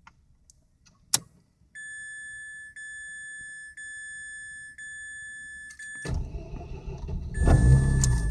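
A click, then a dashboard warning chime beeping steadily about once a second. About six seconds in, the Mazda RX-8's remanufactured rotary engine cranks and catches with a rough low rumble that grows louder near the end, the chime carrying on over it; the engine will not stay running, which the owner wonders may be bad gas.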